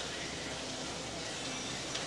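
Chicken wings and ginger frying in oil in a wok: a steady sizzle, with one small tick just before the end.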